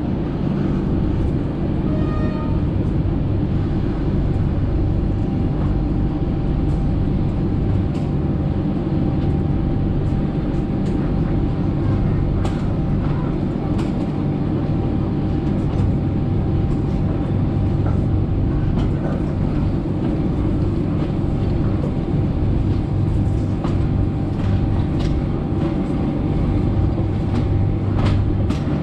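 Passenger train running along the track: a steady low rumble with scattered clicks and knocks from the wheels on the rails, over a faint steady whine.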